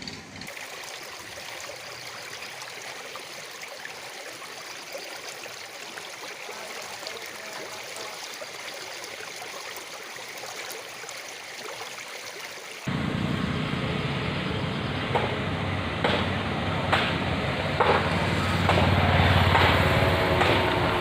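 Steady hiss of water, likely rain or floodwater, for about two-thirds of the stretch. An abrupt cut then brings louder outdoor noise with a low, engine-like rumble and a few sharp knocks.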